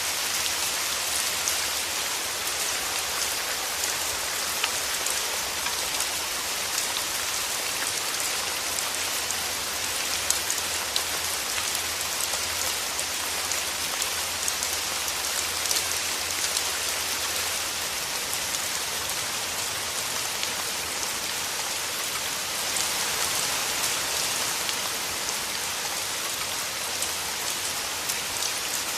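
Steady rain falling through forest trees, a dense even hiss with many small drop ticks and now and then a louder single drop.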